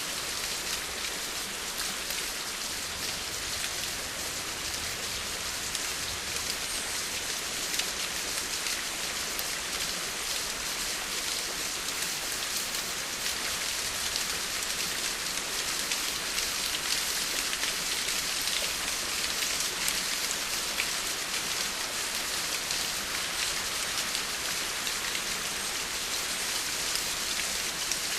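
Steady rain falling on a surface, a dense hiss of many fine drop patters, even throughout.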